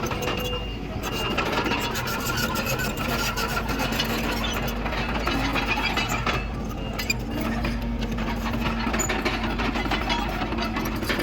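Komatsu D31PX bulldozer's diesel engine running steadily under work, with a dense, continuous clatter of knocks and squeaks from the crawler tracks.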